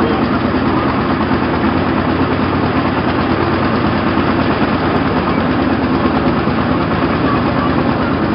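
Motorboat's diesel engine running steadily and loud.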